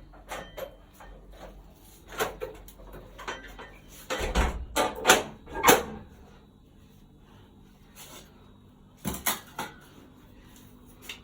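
A door being handled, shut and locked: a series of knocks and clicks, loudest as a cluster of bangs with a thud about four to six seconds in, then two more knocks about nine seconds in.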